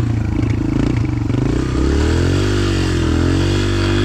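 125 cc four-stroke dirt bike engine riding through loose gravel. It chugs unevenly at low revs for about the first two seconds, then pulls smoothly, rising and falling in pitch with the throttle.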